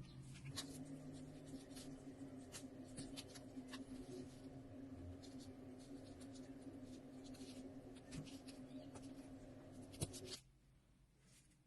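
Scratching and light clicking of small handwork over a steady low hum, the hum cutting off abruptly near the end.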